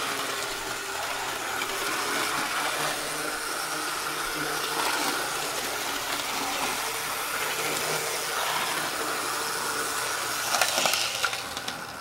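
HO scale model diesel locomotive with a flywheel-equipped motor running on track, its motor and wheels making a steady whir. A few clicks and clatter come near the end, and then the running sound drops away.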